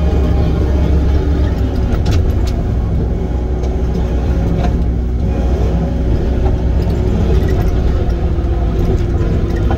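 Diesel engine of a piece of heavy equipment running steadily under work, with a few sharp clicks or knocks about two seconds in.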